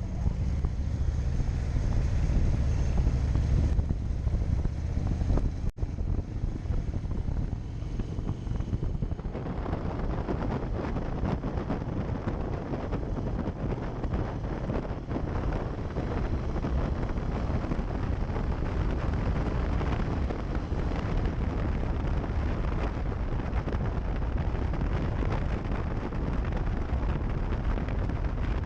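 Steady rush of wind noise on the microphone over a low rumble, with a brief dropout about six seconds in and a change in the sound after about nine seconds.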